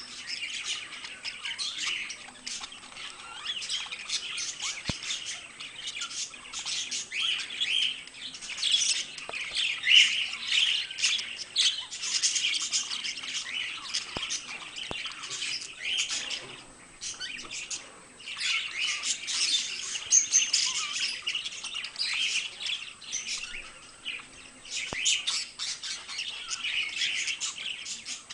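Pet budgerigars chattering and warbling: a dense stream of rapid chirps, squawks and twittering, with a brief lull past the middle.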